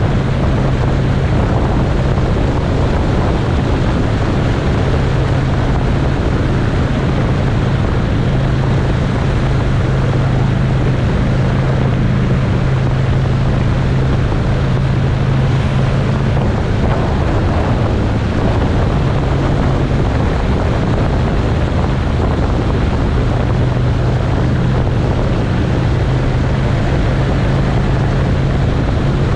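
Motorcycle engine running at a steady road speed with a constant low drone, and wind rushing over the microphone.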